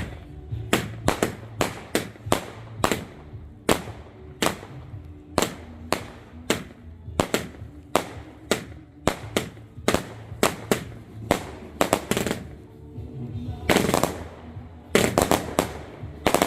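Fireworks going off in a rapid run of sharp bangs, about two a second, with a couple of louder, longer bursts near the end.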